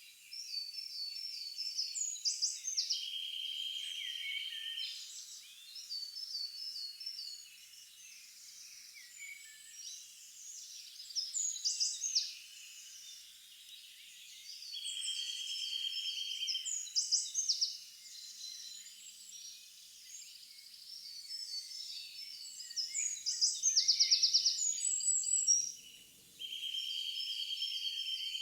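Birdsong from several small birds: repeated chirping notes and rapid buzzy trills. The same phrases come round about every twelve seconds, as in a looped nature recording.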